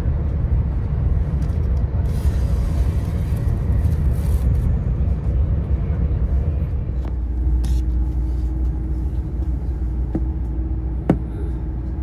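Steady low rumble of the KTX-Cheongryong high-speed train running at speed, heard inside the passenger cabin. A faint steady tone joins about seven seconds in, and there is a single sharp click near the end.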